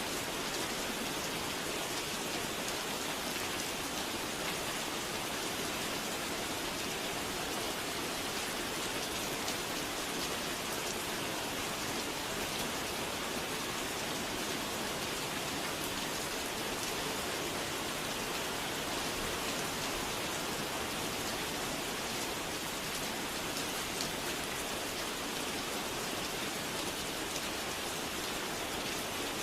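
Steady rain falling and pattering on surfaces, an even hiss of many drops with no breaks.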